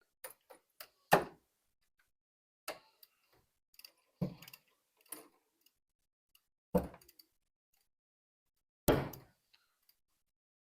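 Irregular metal clinks and knocks of hand tools and bolts being handled during engine teardown: four louder knocks a couple of seconds apart, with faint ticks between.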